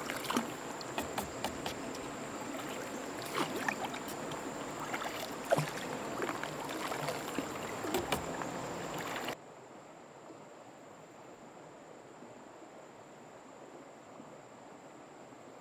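Water splashing and lapping with many small knocks and clicks, as of paddling on water. About nine seconds in it cuts off suddenly to a quieter steady hiss.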